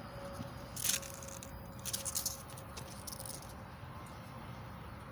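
Emery cloth rustling and scraping in short bursts, one about a second in and a cluster around two seconds, over a steady low hum.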